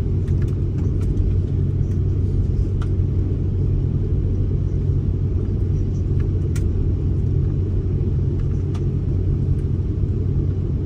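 Steady low rumble inside an airliner's cabin on the ground before takeoff, with a few faint clicks.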